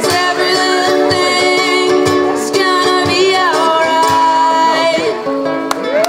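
A ukulele is strummed under sung vocals, with long held notes as the song draws to its close.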